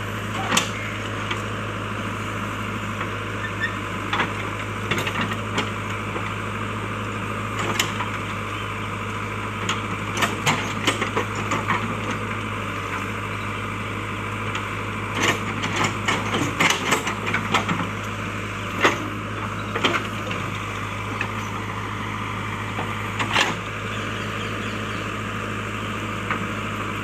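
JCB backhoe loader's diesel engine running steadily, with irregular knocks and cracks from the digging and uprooting work, bunched around the middle and again near the end.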